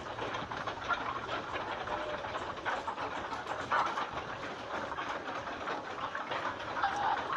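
A flock of broiler chickens feeding, with a steady clatter of many quick pecks and clicks and brief clucks and cheeps scattered through it.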